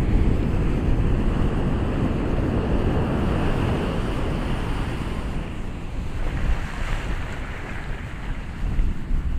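Ocean surf, waves washing in a steady rush that swells and eases, with wind rumbling on the microphone.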